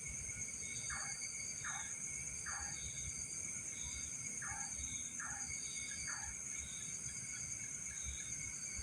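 Night insects droning steadily in several high, unbroken bands, with a pulsing chirp above them. Short falling calls from another animal repeat every half second to a second, over a low rumble.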